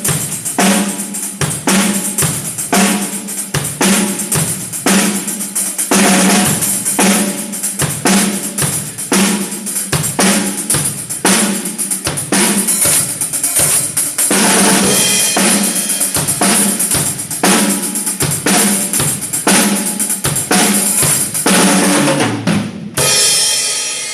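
Drum kit played in a steady groove, kick and snare on a regular beat under cymbals, with a denser cymbal wash in the middle. Near the end the beat stops and the sound dies away.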